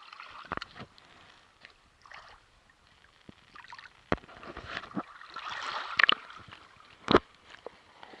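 Water sloshing and splashing, with scattered sharp knocks and clicks; the loudest knocks come about six and seven seconds in.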